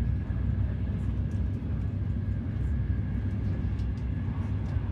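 Frecciarossa high-speed train heard from inside the passenger carriage while running at speed: a steady low rumble with a faint, steady high tone above it.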